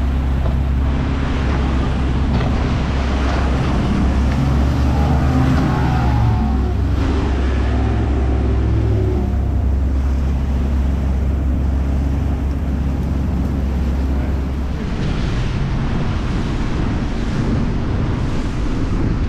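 Yamaha outboard motor on a Pathfinder bay boat running hard at planing speed, with wind on the microphone and the hull hissing and slapping through a light chop. About 15 seconds in the engine's steady hum drops away as the boat comes off the throttle.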